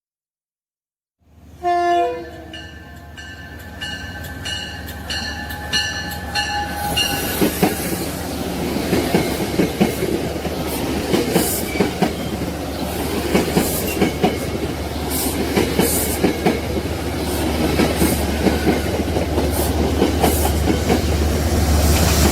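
Train horn sounding a multi-note chord about a second and a half in, fading out after several seconds. It is followed by a passing train's wheels clicking steadily over rail joints, growing louder.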